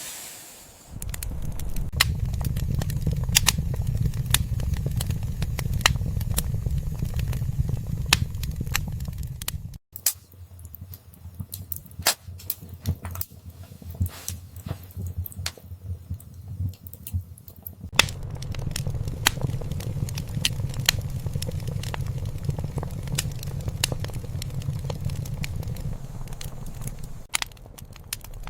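Wood fire crackling in a fireplace, with frequent sharp pops and snaps. Beneath it runs a low rumble that cuts out abruptly about ten seconds in and comes back around eighteen seconds.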